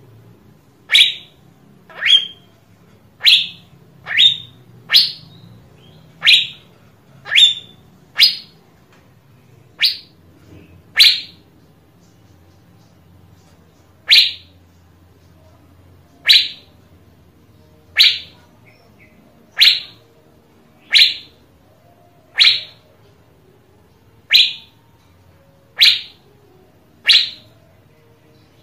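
Asian fairy-bluebird calling: a series of short, quick upward-sweeping whistled notes, one every second or two, with a brief pause partway through.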